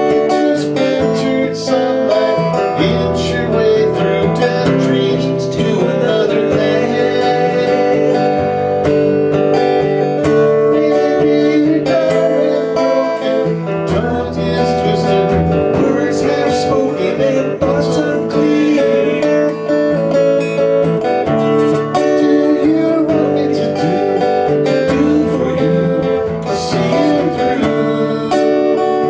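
Acoustic guitar music, strummed and played steadily as a song.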